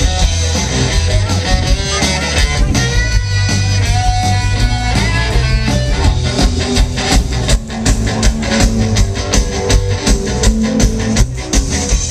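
Live rock band playing loud amplified music, with stringed instrument lines and a steady drum beat that comes through more clearly in the second half.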